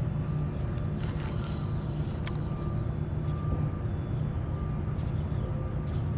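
Steady low outdoor rumble with no distinct events, with a faint thin high tone that comes and goes.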